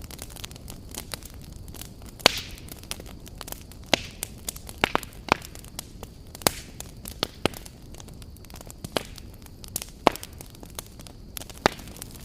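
Wood fire crackling, with irregular sharp pops and snaps over a steady low rumble of the burning logs; the loudest pops come a little after two seconds and again near ten seconds.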